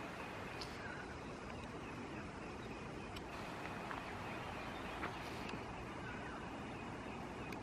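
Faint, steady outdoor background noise with a few faint short high chirps and light ticks.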